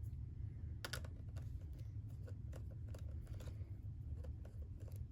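Faint small clicks and ticks of a screwdriver backing out the Phillips screws of a white iMac's RAM bay cover, with one sharper click about a second in.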